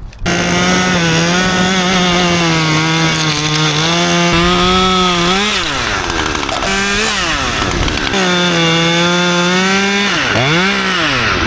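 Two-stroke chainsaw running at high revs while cutting wood, its engine pitch dropping and rising again twice, about halfway through and near the end, before it cuts off abruptly.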